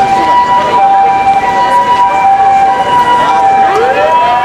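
Two-tone emergency vehicle siren holding a high and a low tone, the pattern of a Japanese ambulance siren. A second siren wails upward near the end.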